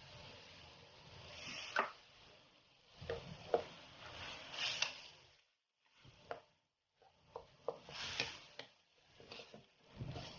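A spatula stirring and scraping glutinous rice, coconut milk and boiled corn in a pot, with irregular soft knocks and scrapes; the sound drops out for about a second in the middle.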